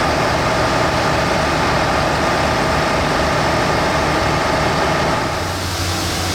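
Fire engine's diesel engine running steadily, dropping to a lower, steadier hum about five seconds in.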